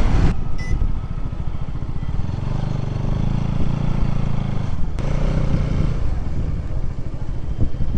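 Bajaj Pulsar NS200's single-cylinder engine running, picking up for a couple of seconds around the middle and then easing off, with a single sharp click about five seconds in.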